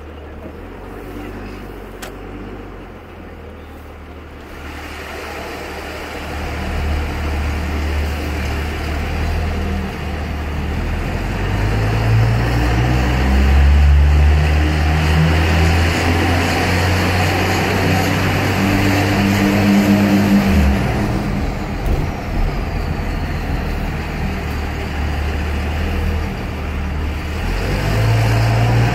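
Exhaust of a 2001 Dodge Ram 2500's diesel engine through a 4-inch aFe exhaust, the engine pitch shifting up and down as it runs under load. It builds from about four seconds in, eases a little past the middle, and picks up again near the end.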